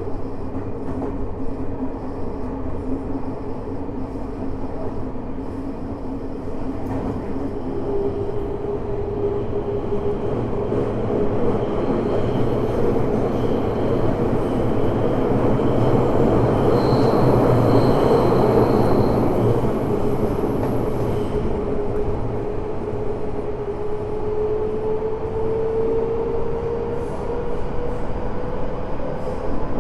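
Tokyo Metro 05 series subway car heard from inside while running: a steady whine from its Mitsubishi IGBT inverter and traction motors over wheel and rail rumble. The rumble swells in the middle, and the whine climbs slightly near the end.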